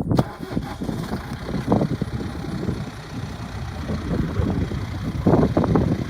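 John Deere 6120R tractor's diesel engine running with an uneven rumble, growing louder about five seconds in.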